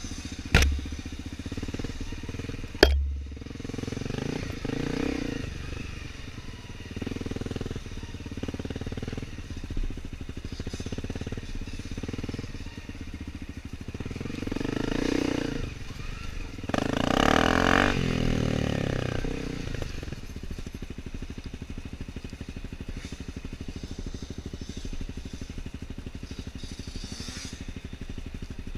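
Dirt bike engines running steadily, with two sharp bangs within the first three seconds. The engines swell louder twice past the middle, as a bike revs or passes close.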